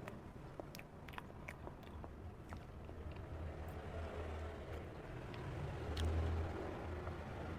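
Close-miked eating: chewing with small wet mouth clicks scattered throughout, over a steady low rumble that swells briefly about six seconds in.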